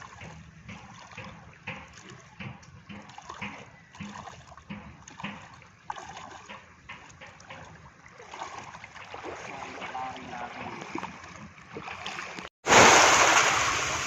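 Seawater splashing irregularly as people bathe and play in the sea, over a low steady hum. Near the end the sound cuts abruptly to a much louder, even rushing noise of wind and waves.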